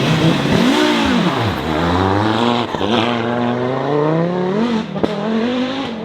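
Rally car engine under hard throttle: the pitch rises and dips, then climbs steadily for about three seconds before dropping sharply, as at a gear change or a lift off the throttle, and then starts to climb again.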